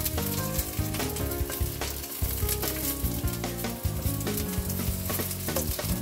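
Sliced ginger frying in a little hot oil, sizzling and crackling as a wooden spatula stirs it around the pot. Background music with shifting notes plays along.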